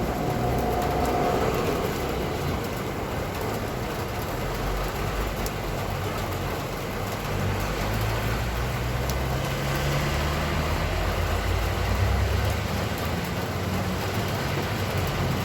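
Steady rain, with a motor vehicle's engine running in the street. The engine grows louder and rises slightly in pitch from about halfway through.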